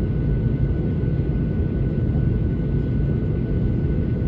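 Boeing 737-800 cabin noise: a steady low rumble of jet engines and airflow, with a faint steady high whine.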